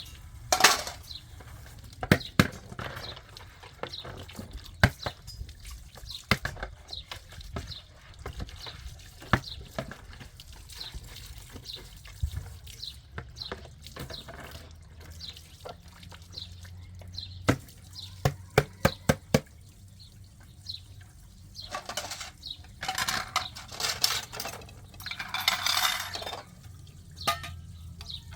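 Dishes and pots clinking and knocking, with water running in short bursts near the end.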